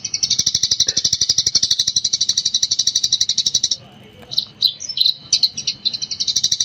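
Eurasian tree sparrow chirping in a very fast, non-stop 'gecor' chatter of high, rapid chirps. A little under four seconds in, it pauses for a moment with a few separate chirps, then the rapid chatter starts again near the end.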